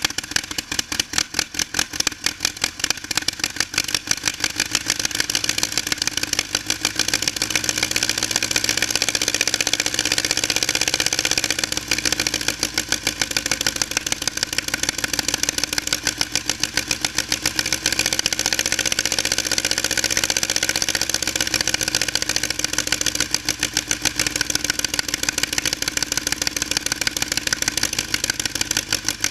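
Aircraft engine running on a test bench, a fast, even string of firing pulses, picking up speed slightly from about seven seconds in.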